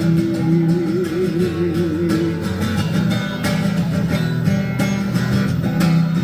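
Guitar strummed as accompaniment between sung lines, with the last sung note held with vibrato until about two seconds in.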